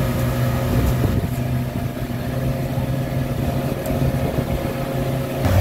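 Tour boat's engine running steadily under way, a constant low hum.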